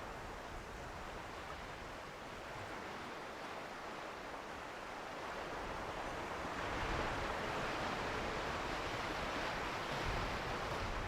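Ocean surf washing as a steady rush, swelling louder about six seconds in.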